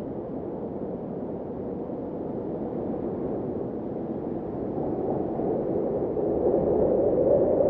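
Blizzard wind: a steady, low rushing of wind with little hiss, swelling louder over the last few seconds.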